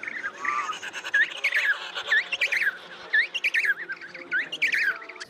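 Rapid series of short, high chirping calls from a small animal or bird, repeating two or three times a second, each call dipping and rising in pitch.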